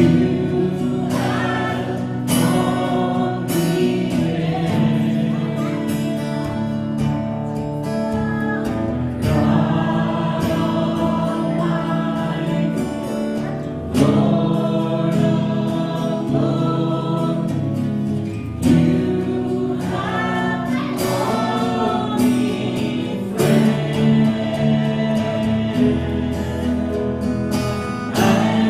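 Gospel worship music: choir voices singing over a band, with sustained chords and bass underneath and regular drum hits.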